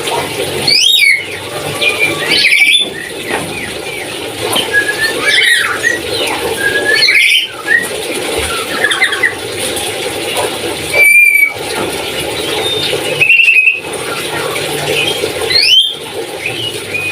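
Papuan nuri parrot giving shrill, squealing calls with quick pitch glides, about one every two to three seconds, over a steady background hiss.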